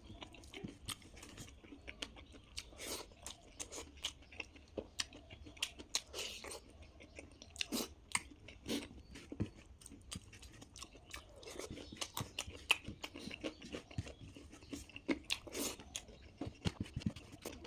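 Close-miked chewing and biting of food, with many short, irregular crunches and mouth clicks: a person eating a meal of chicken, potatoes and rice.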